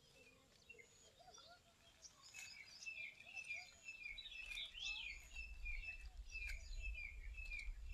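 Birds chirping in short repeated calls, busier from about two seconds in, with a few faint clicks and a low rumble starting about halfway through.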